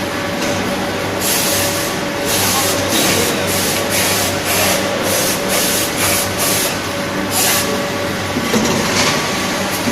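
Automatic bagging scale running in a factory: a steady machine hum with a run of short, sharp hissing bursts, about two a second, starting about a second in and thinning out near the end.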